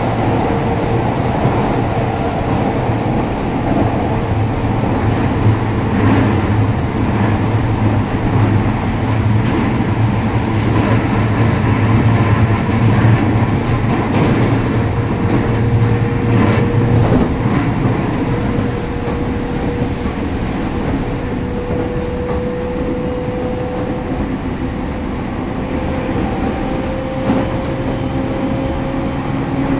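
Keio Line electric commuter train running between stations, heard from inside the passenger car: a steady rumble of wheels on rails, with a faint whine that slowly rises in pitch.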